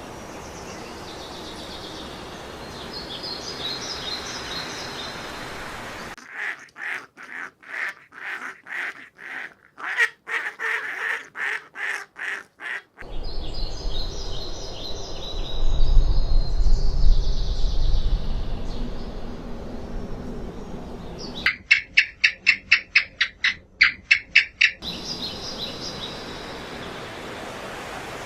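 Farmyard poultry calling in runs of short, evenly repeated calls, first about two a second and later a quicker run, with small birds chirping in the background. The sound changes abruptly several times.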